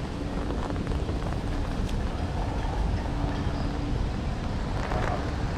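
Storm wind buffeting the camera microphone, a steady low noise, with a faint steady hum under it for about the first four seconds.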